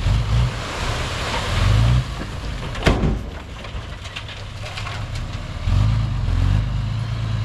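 Heavy diesel earthmoving machinery running with a low rumble. The engine works hard at the start, eases off after about two seconds and picks up again about six seconds in. A single sharp knock comes near the three-second mark.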